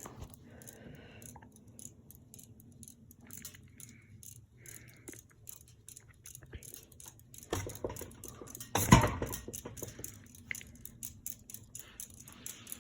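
Seagull Lighting ceiling fan running on low speed: a faint steady motor hum with a rapid light ticking, and one louder knock or rustle about nine seconds in. The fan turns slowly, which the owner puts down to a bad capacitor.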